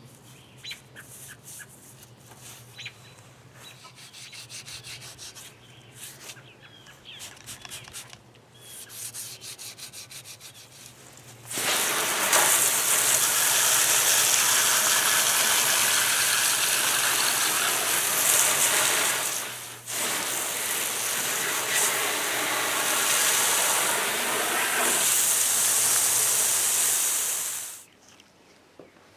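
Light, irregular scraping and scrubbing on rusty metal parts. About twelve seconds in, a loud steady hiss takes over; it breaks off briefly partway through and stops about a second before the end.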